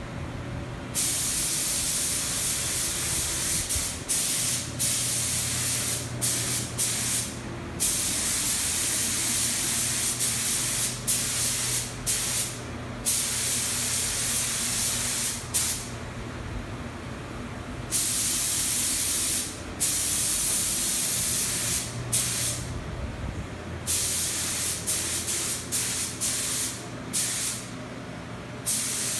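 Paint being sprayed in repeated bursts of hiss, on and off as each pass is made, some brief and some lasting a few seconds, over a steady low hum.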